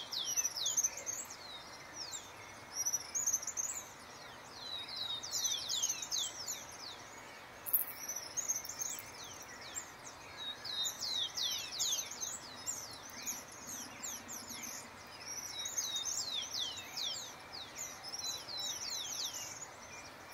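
Wild birds chirping in an ambient chorus: repeated clusters of quick, high, downward-sweeping notes over a faint steady background hiss.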